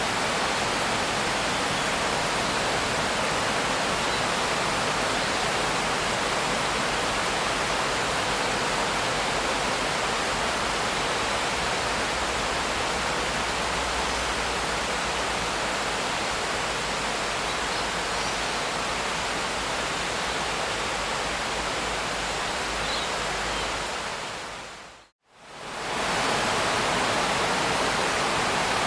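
Steady rain hiss. About 25 seconds in it fades briefly to silence, then fades back in to the same steady hiss.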